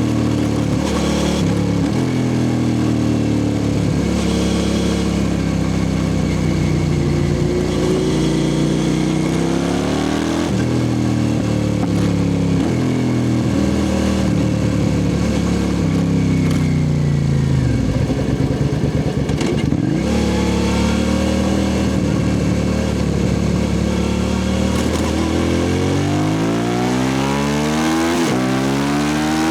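2003 Suzuki SV650S's V-twin engine through a Lextek exhaust with the dB killer removed, its revs rising and falling repeatedly. About two-thirds in the revs drop away with a run of crackles on the overrun, then climb again near the end.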